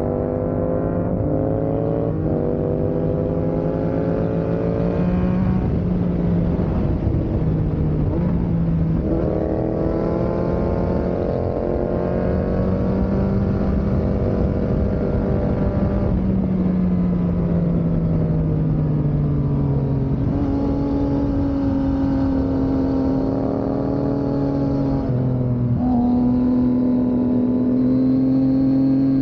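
Yamaha MT motorcycle engine running hard under load. Its pitch climbs and falls with throttle, and it drops suddenly several times as it shifts through the gears.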